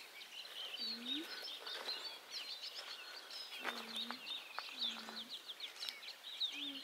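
Birds chirping and twittering, many quick high calls overlapping throughout.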